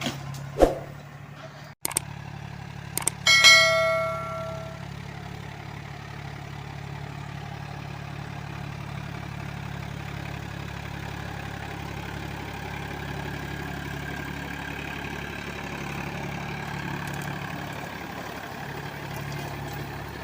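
Powertrac Euro 45 Plus tractor's diesel engine running steadily. About three seconds in there is a single metallic clang that rings for a second or so, and a short knock comes just before it.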